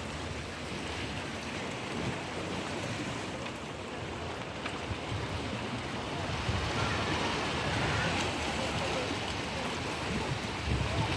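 Mediterranean Sea waves washing steadily, with wind buffeting the microphone.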